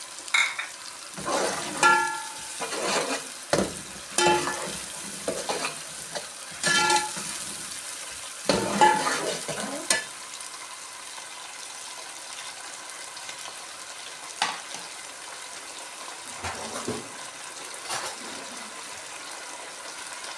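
Metal ladle stirring green onions and ginger-garlic paste frying in ghee in an aluminium pot. For about the first ten seconds the ladle scrapes and clanks against the pot with ringing metallic tones. After that the frying goes on as a steady sizzle, with an occasional light tap.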